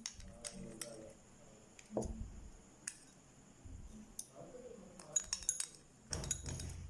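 Scattered light clinks and taps of a utensil against a mixing bowl as flour, spices, salt and water are mixed before kneading into dough.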